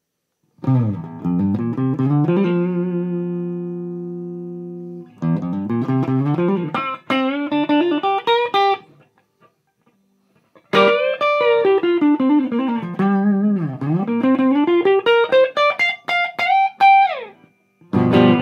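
Electric guitar, a Gibson Les Paul through a Mesa Boogie Dual Rectifier's channel 1 and a Marshall 4x12 cab, playing a tone sample. The amp is set to spongy power with tube rectification. The playing is quick single-note runs and slides around a held chord that rings out and fades with vibrato, with a short break about halfway through and a brief chord near the end.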